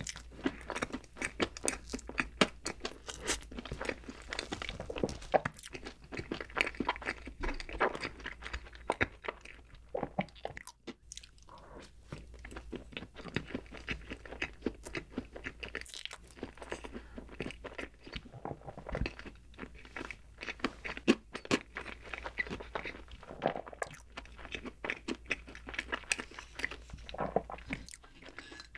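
Close-miked mouth sounds of someone chewing soft mixed berry chocolate layer cake: a dense run of small clicks, with a brief lull about ten to eleven seconds in.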